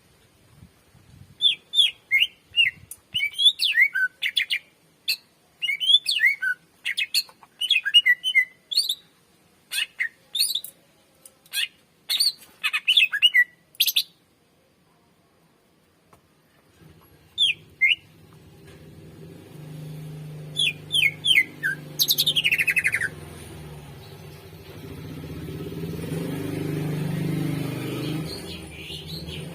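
Cucak ijo (greater green leafbird) singing: rapid runs of short, sharp whistled notes for the first half, a pause, then a few more notes and one long falling whistle. A low hum comes in during the second half.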